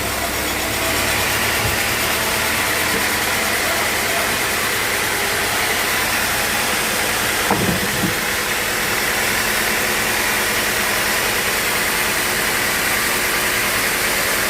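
Sawmill machinery running steadily with a loud, even mechanical noise. A few knocks come about halfway through.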